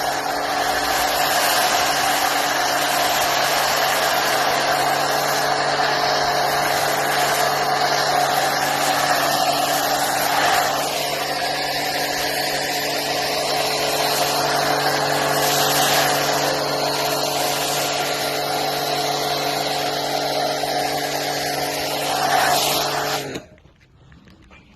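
Car wash machinery running with a steady hum and a loud hiss, then shutting off suddenly near the end.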